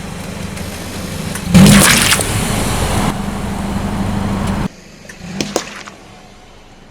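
A car crushing an object under its tyre: a loud rushing, crunching noise with its loudest burst about a second and a half in. It cuts off suddenly about two-thirds of the way through, leaving a few faint clicks.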